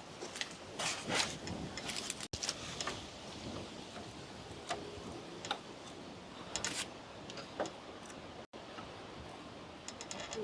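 Irregular small clicks and taps of plastic parts being handled: clips being fitted to the back of the grille's emblem letters.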